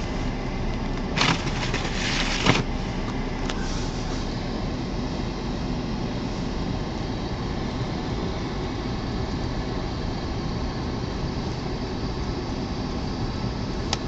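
Steady rush of blizzard wind and car running noise inside a car's cabin as it creeps along. About a second in there is a louder hissing rush lasting about a second and a half, ending in a short sharp peak.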